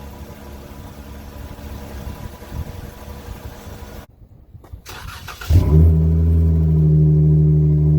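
2014 Dodge Charger's V6 exhaust. It runs with a low rumble, then cuts out briefly, and about five and a half seconds in a much louder, steady, deep drone starts and holds.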